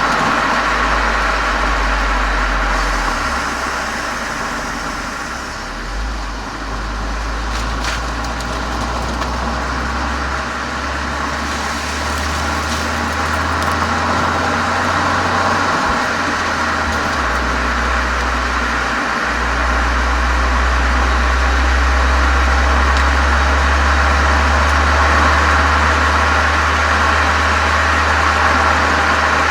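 Volkswagen Golf 7 GTI's turbocharged four-cylinder exhaust through a Cox aftermarket muffler and chamber, running steadily with a deep low drone that shifts in pitch and strength a few times.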